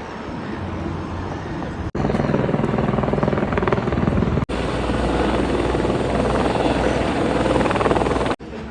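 Steady vehicle engine noise in several short clips, each cut off abruptly: about two seconds in, about four and a half seconds in, and near the end.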